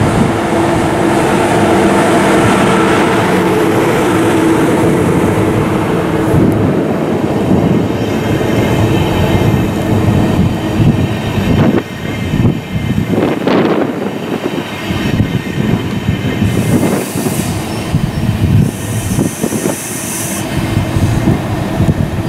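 Deutsche Bahn ICE high-speed train rolling slowly into a station. A steady drive whine gives way about halfway through to wheels rumbling and squealing on the rails. Two short hisses come near the end.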